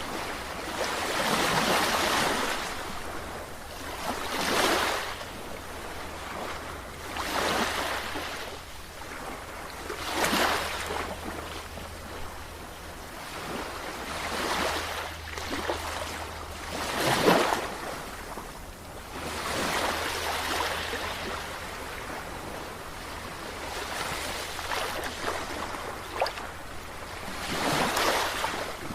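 Sea waves washing in and drawing back, the hiss of surf swelling and fading every three to five seconds, with a steady low rumble underneath.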